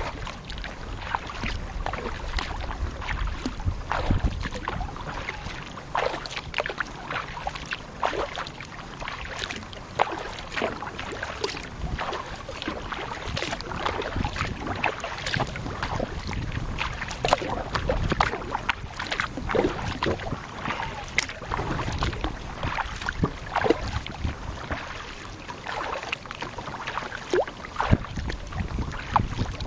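Kayak being paddled: irregular splashes and knocks of the paddle in the water and against the hull, over a low rumble of wind on the microphone.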